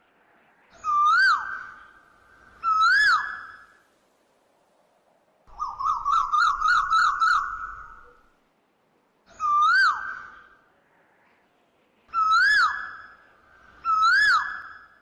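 Bird calls: clear whistled notes, each rising and then dropping quickly, repeated every couple of seconds, with a rapid trill of about eight notes in the middle.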